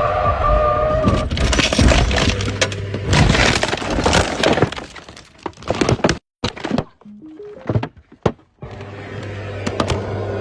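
Motorbike crash sounds: a run of cracking and breaking impacts over the first five seconds. After a broken, nearly silent stretch, a steady low hum sets in.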